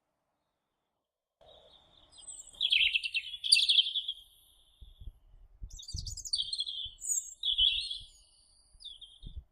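A bird singing: two bouts of high, quick chirping phrases, starting after a short silence.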